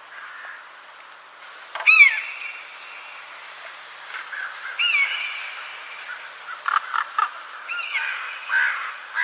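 Birds calling: loud pitched calls with a quick bend in pitch come about every three seconds over a steady background chorus, with a few short sharp notes between them.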